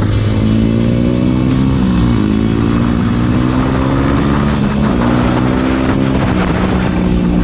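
Trail motorcycle engine pulling under throttle, its pitch climbing steadily and then dropping back as it shifts up, about two seconds in, again about five seconds in and near the end.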